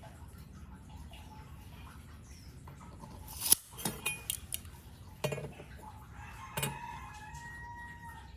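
Several sharp knocks and clatters in the middle, followed near the end by one long pitched call that falls slightly in pitch.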